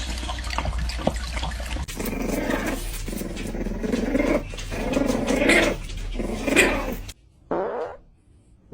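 A dog growling in a series of short bursts, starting about two seconds in, with one last brief growl near the end.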